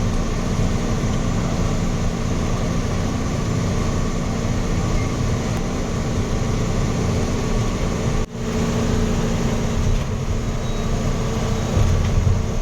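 Diesel truck driving on the highway: steady engine and road noise inside the cab, with a brief sharp break about eight seconds in.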